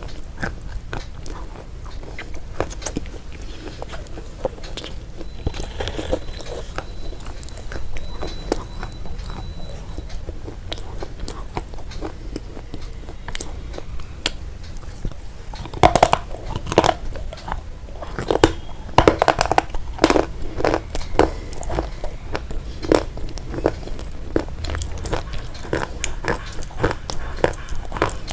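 Crunchy food being bitten and chewed close to the microphone: a steady stream of crisp crunches, growing louder and denser past the middle.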